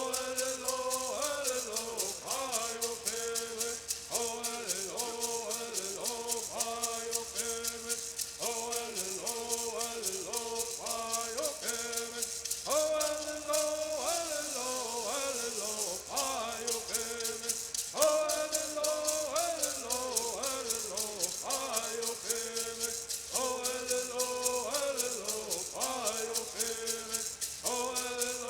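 Southern California Native American bird singing: men's voices singing together over the steady, rapid shaking of gourd rattles. The sung lines slide and fall in pitch, with a new phrase starting every few seconds.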